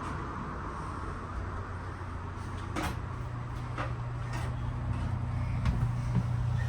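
Steady low hum inside a standing passenger rail car, getting stronger about three seconds in, with a single sharp click just before.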